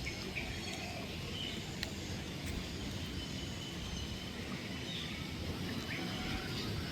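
Steady low outdoor rumble with a few faint, short bird chirps now and then.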